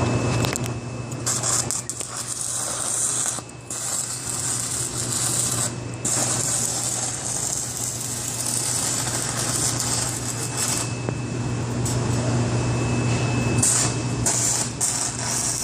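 Electric arc welding: a steady crackling hiss from the arc over a constant low hum, broken off briefly a few times, around four and six seconds in and several times near the end.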